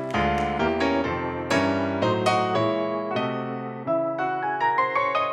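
Piano music: a run of struck chords and single notes, climbing step by step in pitch near the end.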